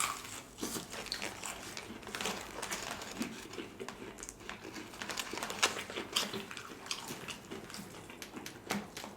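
Close-up eating sounds: many small, sharp crackles and clicks with rustling as crispy fried fish is handled and chewed.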